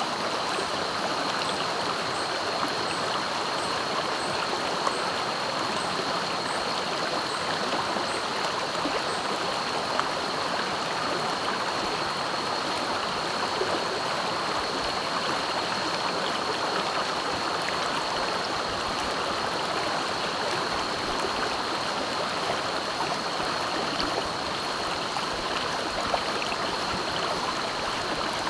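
Clear, swift river water rushing and gurgling steadily over its bed. A thin, steady high-pitched whine runs throughout, and a faint high chirp repeats about every half second for the first nine seconds or so.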